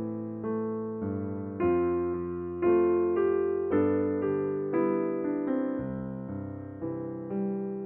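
Slow, gentle piano music: notes and chords struck every half second to a second, each left to ring and fade.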